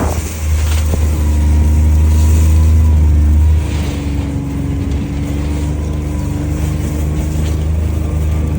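A vehicle's engine running steadily, a low hum with even overtones, easing slightly in loudness about three and a half seconds in.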